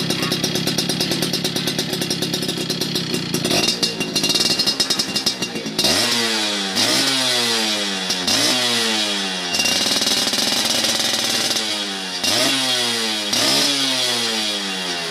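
Yamaha F1ZR two-stroke single-cylinder engine running through an aftermarket racing exhaust: it idles for about six seconds, then is revved sharply again and again, each rev rising quickly and falling back.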